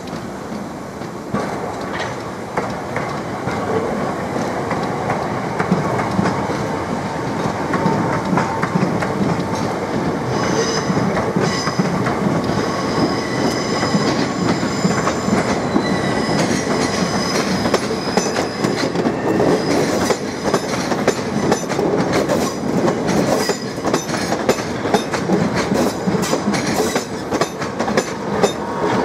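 Electric multiple-unit trains, a Class 465 Networker and a blue Class 375 Electrostar, running over the station pointwork: a steady rumble with wheels clacking over points and rail joints. High wheel squeal comes in through the middle stretch, and the clacks come quick and sharp near the end.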